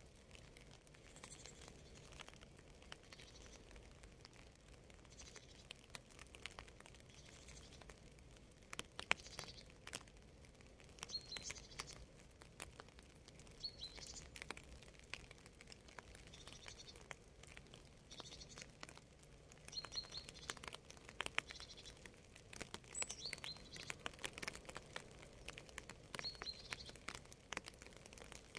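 Faint rain ambience with scattered drips and taps, and a small bird giving short high chirps every two to three seconds.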